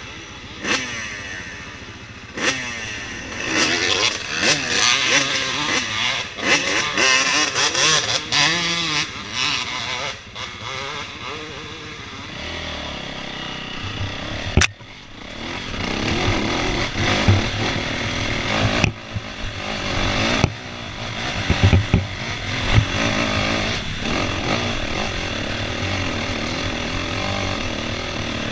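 Dirt bike engine revving up and down as it is ridden, with one sharp knock about fifteen seconds in, then running more steadily.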